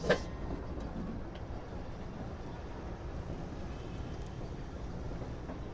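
Steady low rumble of a passenger train running, with one sharp knock just after the start.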